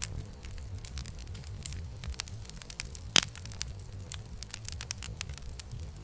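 Campfire crackling: irregular small snaps and pops over a low rumble of burning wood, with one loud pop about three seconds in.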